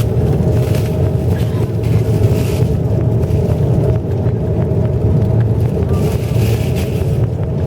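Airbus A330-300 airliner heard from inside the cabin: a steady low rumble of engines and airflow with a steady whine above it.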